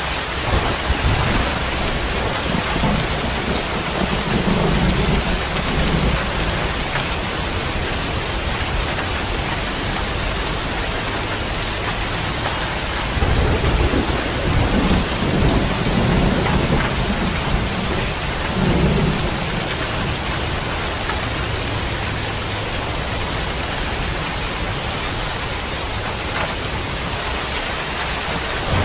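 Steady rain falling, with low rolls of thunder rumbling a few seconds in and again for several seconds around the middle.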